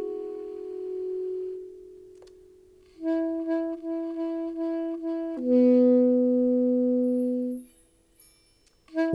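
Saxophone playing slow, meditative phrases: a held note that fades away, a pause, a run of repeated short notes on one pitch, then a long, loud low note that stops about a second before the end.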